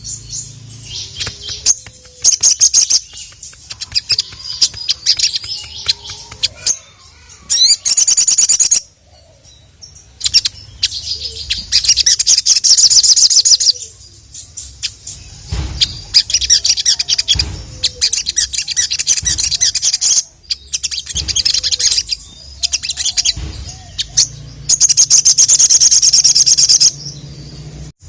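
Sogon (sogok ontong, the crimson sunbird) singing in repeated bursts of very fast, high-pitched twittering trills, each burst a second to several seconds long, with short pauses between them.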